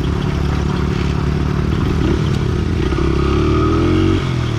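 Pit bike engine running steadily under way. It revs up from about three seconds in and drops off sharply just after four seconds, as on a shift or a throttle-off.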